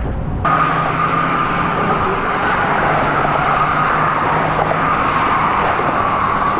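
Sport motorcycle running under way, engine and wind noise with a steady whine; the sound jumps up about half a second in.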